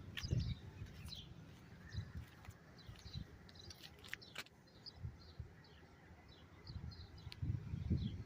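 Small birds chirping, many short high chirps in quick succession, over a faint outdoor background, with a low rumble at the start and again near the end.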